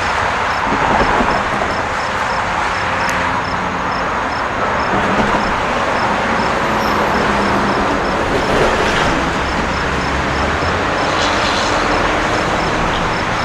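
Long Island Rail Road M3 electric multiple-unit train passing at a grade crossing: a steady, loud rush of wheel and motor noise. Over it, the crossing bell dings about twice a second.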